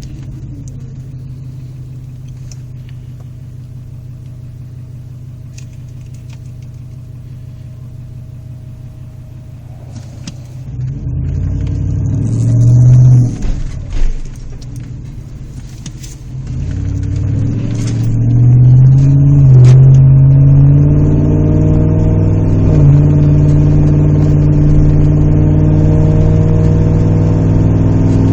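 2006 Jeep Grand Cherokee's 5.7-litre Hemi V8 through a MagnaFlow resonator delete and custom side exhaust, heard from inside the cab while driving. It drones low and steady at light throttle, then about ten seconds in the throttle opens and the revs climb, dipping twice, before settling into a louder steady drone.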